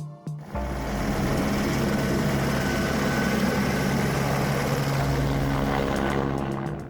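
Robinson R66 turbine helicopter running, a steady engine and rotor noise. It cuts in abruptly about half a second in and fades out near the end.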